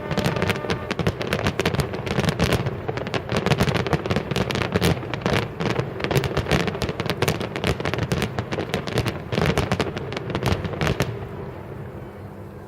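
Fireworks display: a dense barrage of overlapping bangs and crackling shells, dying away about a second before the end.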